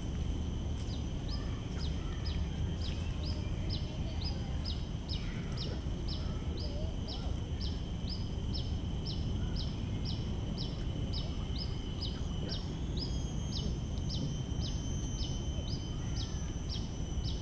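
A bird repeating a short, high, downward-sweeping note about two to three times a second, over a steady high drone and a low background rumble.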